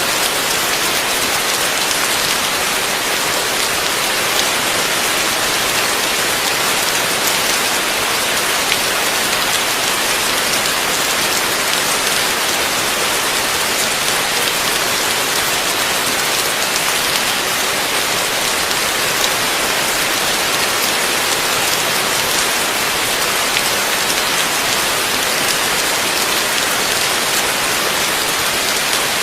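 Heavy rain falling steadily, a dense even hiss of drops with scattered small taps.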